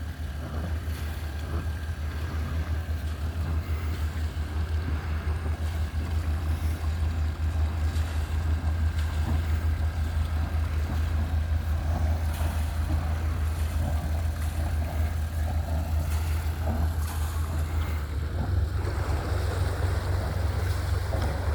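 Steady low drone of a boat's engine with water noise over it. Near the end the sound turns rougher as wind buffets the microphone.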